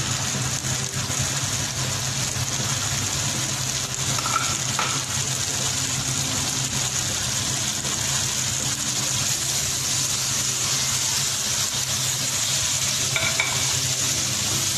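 Chicken pieces in tomato masala sizzling in a nonstick karahi as a silicone spatula stirs the ground spices in, over a steady low hum.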